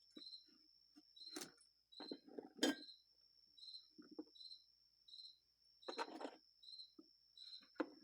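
Small metal parts clinking and rattling in short spells as a box of parts is rummaged through. Behind it a cricket chirps steadily, about one chirp every half-second or so, over a faint steady high whine.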